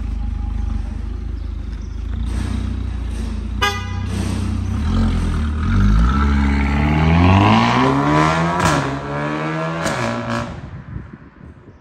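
A motor vehicle engine running steadily, with a short toot about three and a half seconds in. Partway through the engine revs up, its pitch rising steeply, then drops and fades out near the end.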